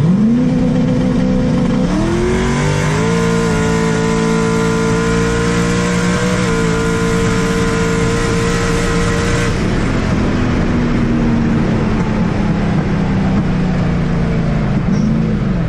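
A motor vehicle running at a steady speed. Its pitch rises in steps over the first three seconds, holds, then drops to a lower steady note about nine and a half seconds in and eases off near the end.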